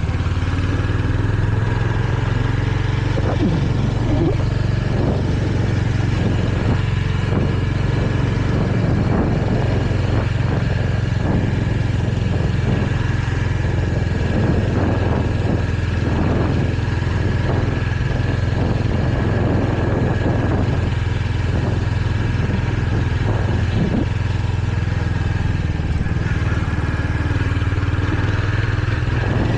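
Royal Enfield Hunter 350's single-cylinder engine running at a steady cruise, with a steady rush of wind and road noise over it.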